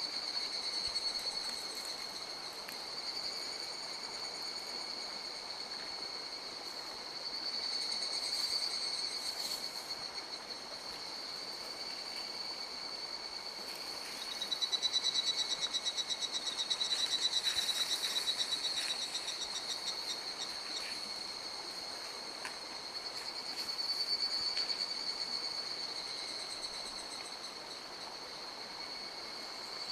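Mountain stream rushing steadily, with a continuous high-pitched calling of frogs or insects that swells and fades. A second, pulsed trill joins about halfway through and stops some seconds later.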